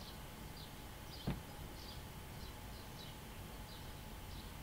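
Faint bird chirps, short and high, repeating about twice a second over a low steady hiss, with a single soft knock about a second in.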